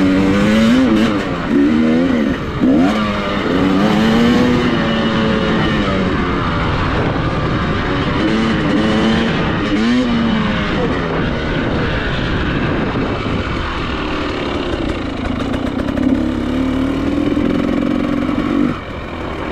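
Dirt bike engine being ridden hard, its note rising and falling over and over with the throttle and gear changes. It drops away near the end.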